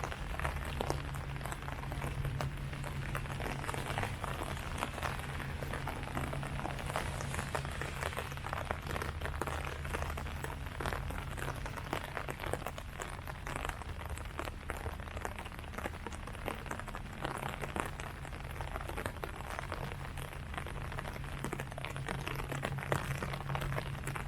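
Steady rain falling on leaves, with many separate drop hits, over a steady low hum.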